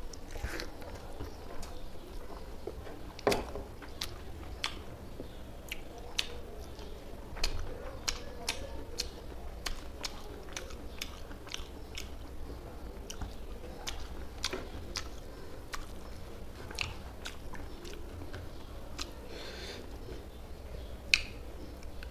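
A person chewing and biting a mouthful of rice mixed with fish curry, eaten by hand and close-miked, with frequent sharp, irregular clicks of lips and teeth; a louder click comes about three seconds in.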